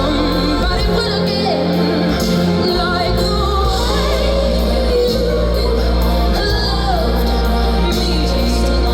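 Live concert music: a woman's lead vocal singing a wavering melody over a band with a steady bass line.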